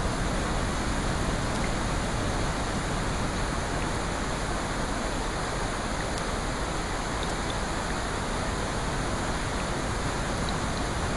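Steady, even rushing water noise of a sleep-sound recording, with no swells or breaks.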